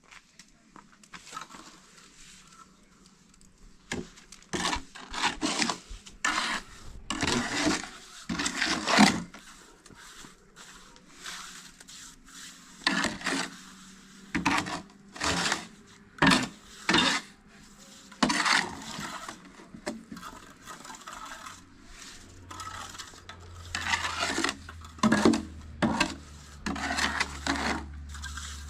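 Irregular series of scraping and knocking strokes, some short and sharp, some drawn out, typical of hand work on building materials. A low steady hum comes in about two-thirds of the way through.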